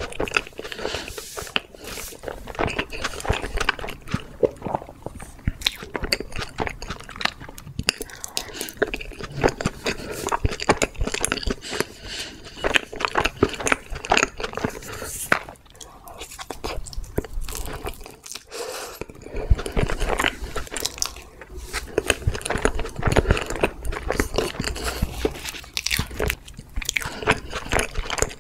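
Close-miked chewing of a creamy chocolate crepe cake: a dense, continuous run of small wet mouth clicks, with a brief lull about two-thirds of the way through.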